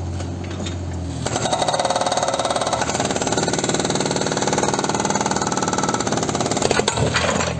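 A steady low machine hum, then about a second in a louder, fast, even mechanical rattle starts and keeps going.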